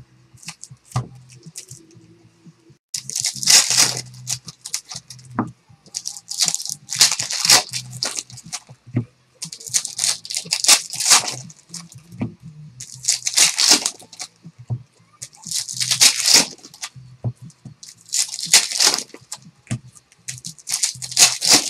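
Foil trading-card pack wrappers being torn and crinkled open, in about six bursts a few seconds apart, starting about three seconds in. A steady low hum runs underneath.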